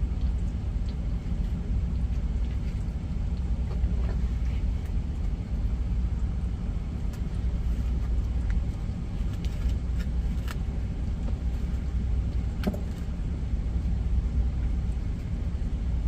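Steady low rumble of an idling truck engine heard from inside the cab, with a few faint knocks of a knife on a cutting board.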